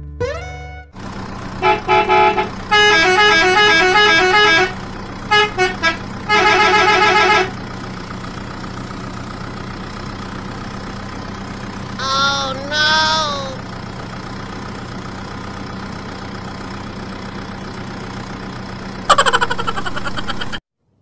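Truck engine and horn sound effect: a steady engine drone runs under several bursts of a pulsing multi-tone horn in the first seven seconds. Two short wavering tones come about twelve seconds in, and another horn burst near the end cuts off suddenly.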